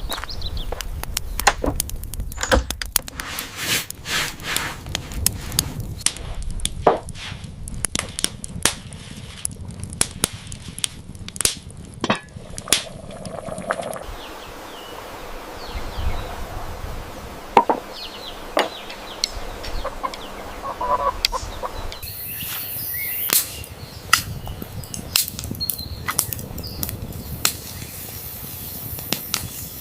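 Irregular sharp knocks and taps, like work with a blade or tool on wood, broken into short sections that change abruptly every few seconds.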